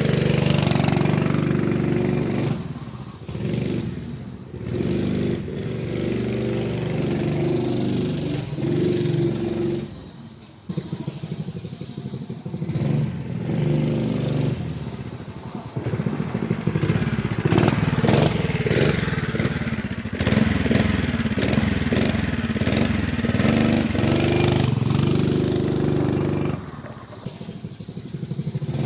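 Honda GX120 single-cylinder engine on a minibike being ridden, its revs rising and falling with the throttle and dropping back sharply a few times, the deepest drop about ten seconds in.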